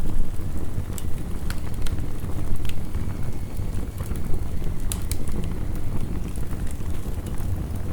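Wood fire crackling, with scattered sharp pops, over a steady low rumble of heavy rain.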